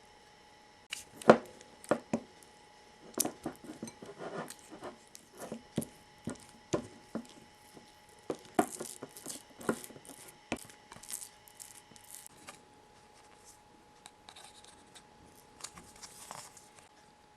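Kitchen utensils and dishes being handled: irregular taps, clinks and scraping, with softer rustling near the end, over a faint steady whine.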